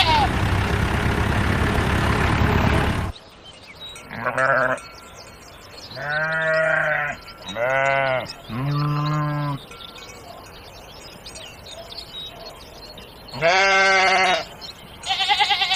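Sheep bleating: five separate baas, three of them in quick succession around the middle. It opens with about three seconds of a dense, steady low noise that cuts off suddenly.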